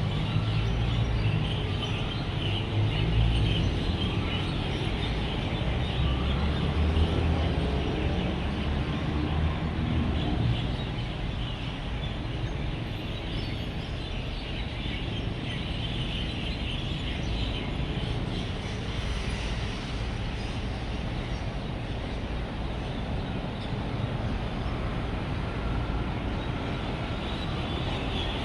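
A dense chorus of roosting birds chirping at dusk over steady road traffic. The traffic rumble is heavier for the first ten seconds or so, then eases, while the chirping carries on.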